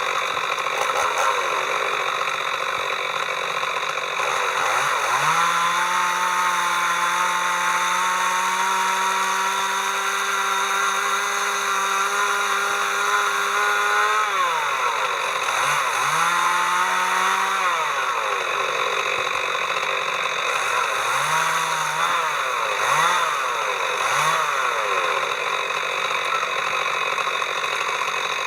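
Two-stroke chainsaw revved up and held at high speed for about nine seconds, then let off. It is revved again briefly, then blipped several times in quick succession.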